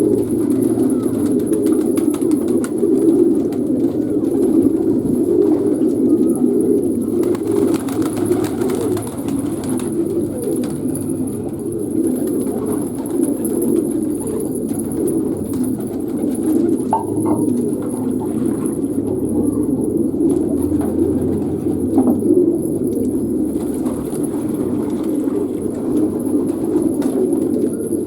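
A flock of fancy pigeons cooing together, many low coos overlapping into one continuous murmur.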